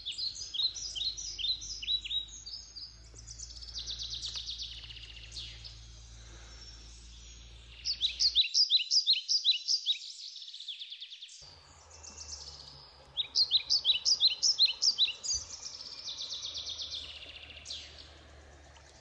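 Songbirds singing: several phrases of quick, high chirping notes repeated in series, loudest about eight and thirteen seconds in, over a faint low steady background rumble.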